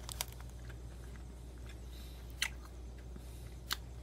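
A person chewing a mouthful of a soft-baked protein bar with crispy bits on top, with a few sharp clicks in between, over a steady low hum.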